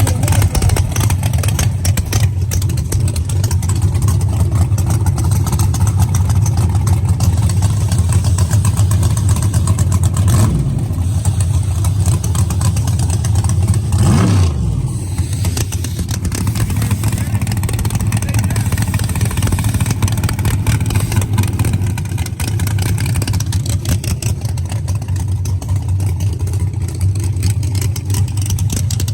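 Drag race car engines running loudly at a drag strip, a steady low rumble with a brief rise and fall in pitch about fourteen seconds in.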